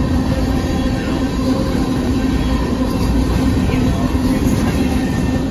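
Covered hopper cars of a Union Pacific grain train rolling past at speed: a loud, steady rumble of steel wheels on rail with a constant hum underneath.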